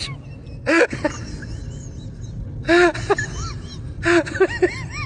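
A person's voice making short, high, wavering vocal sounds in three bursts, over a steady low rumble.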